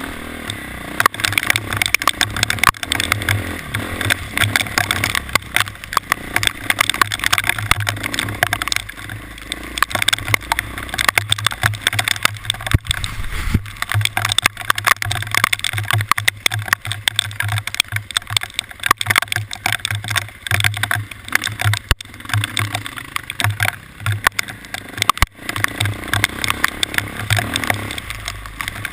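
A vehicle on the move, with wind buffeting the microphone and a dense, irregular patter of sharp ticks.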